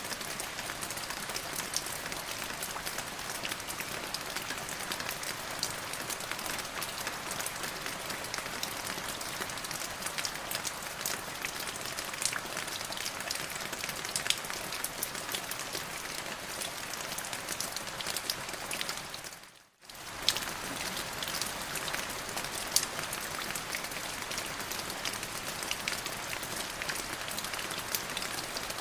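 Steady rain falling, a dense even hiss with many individual drops ticking through it. About two-thirds of the way in the sound fades out almost to nothing for a moment, then comes straight back.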